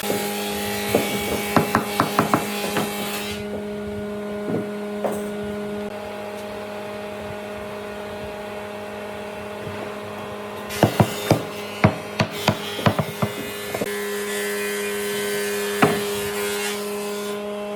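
Workshop sounds: a steady machine hum with clusters of sharp knocks and taps on wood, and a hiss that drops out for several seconds in the middle.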